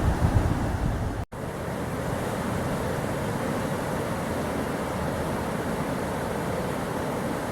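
Wind buffeting the microphone. About a second in, a sudden brief dropout, then a steady even rush of river water.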